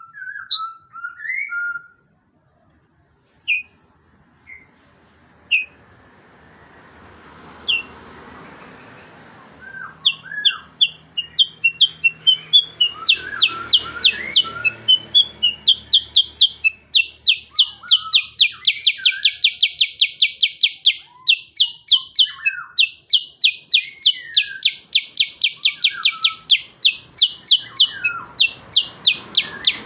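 Cucak kurincang, a bulbul of the kutilang family, singing. A few scattered short whistled calls come first. About ten seconds in, a loud, rapid, rolling series of repeated high notes, about four a second, keeps going alongside lower gliding calls.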